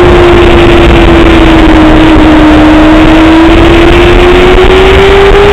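Honda sport motorcycle's engine running at speed on a racetrack, heard from an onboard camera under heavy wind rush. The engine note sags slightly, then rises steadily as the bike accelerates.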